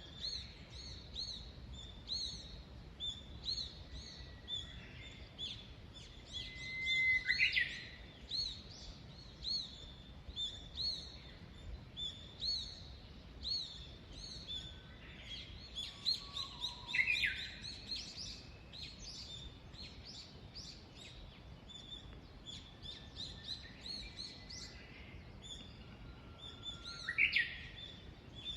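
Small birds singing in a dawn chorus: many short, high chirps repeat throughout. Three times, about ten seconds apart, one louder song stands out, a held note followed by a quick high flourish.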